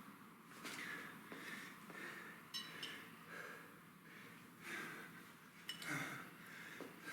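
A man breathing hard under exertion, a run of forceful exhalations about a second apart, during a heavy kettlebell set. A short light metallic clink sounds about two and a half seconds in, and another near the end.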